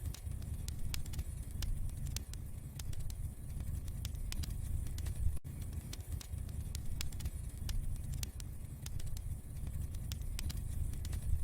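Wood fire crackling in a fireplace: many scattered sharp pops and snaps over a low, steady rumble of the burning fire.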